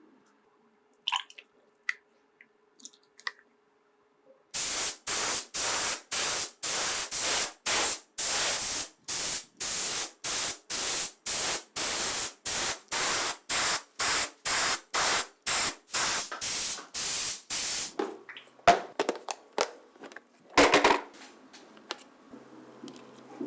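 Aerosol spray paint hissing in short, evenly spaced bursts, about two a second, starting about four seconds in and stopping some thirteen seconds later. A few light clicks come before it, and a few clicks and one more brief hiss follow near the end.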